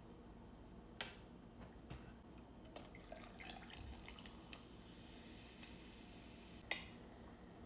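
A few sharp clicks and taps with some soft rustling, as of food and packaging being handled, over quiet room tone.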